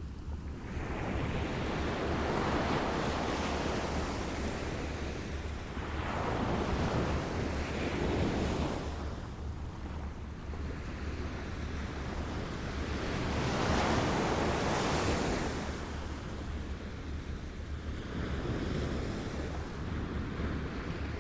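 Waves lapping, swelling and receding in about four slow washes, each lasting a few seconds.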